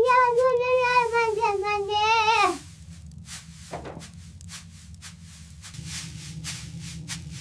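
A sheep bleating once, a long wavering call of nearly three seconds. Faint scattered clicks follow over a low steady rumble that grows a little louder about six seconds in.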